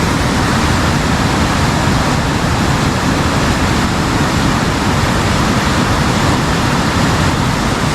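Swollen, fast-flowing river rushing after rain: a steady, unbroken rush of water.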